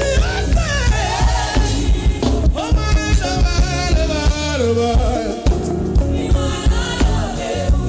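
Band music with a singer: a vocal melody over a steady drum and bass beat.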